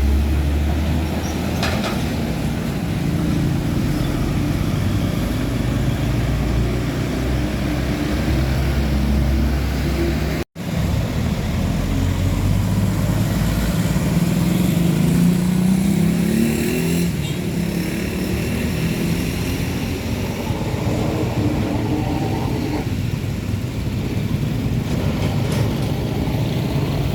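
Road traffic with heavy trucks' engines running as they pass. About midway, one engine's pitch rises as it accelerates. The sound cuts out abruptly for a moment about ten seconds in.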